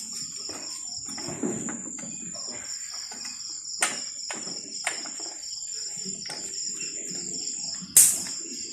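Crickets or similar insects chirring steadily in a high, pulsing trill. Over it come a few sharp knocks, the loudest near the end.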